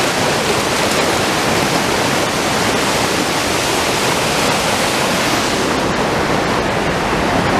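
Large waterfall thundering close up: a dense, steady roar of heavy falling water crashing at its base.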